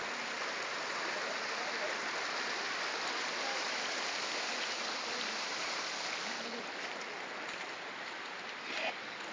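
Steady rushing of floodwater, with one short louder sound just before the end.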